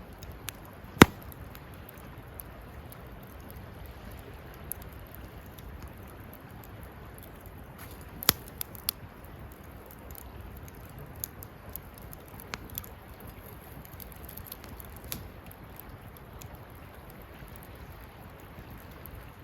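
Wood campfire burning with a steady rush and scattered sharp crackles and pops, the loudest about a second in and a pair around eight seconds in.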